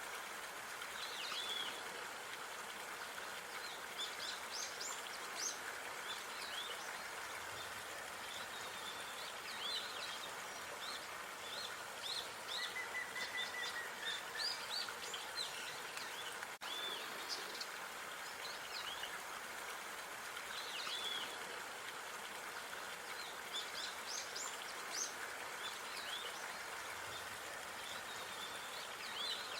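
Outdoor park ambience: small birds chirping and calling in short, high notes again and again over a steady background hiss.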